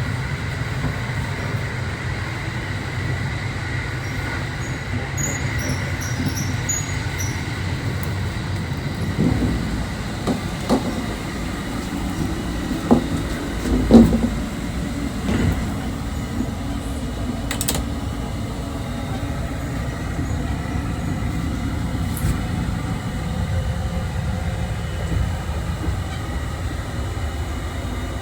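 Running noise of a JR 681 series electric train heard from inside, a steady low rumble, with a few sharp knocks about halfway through.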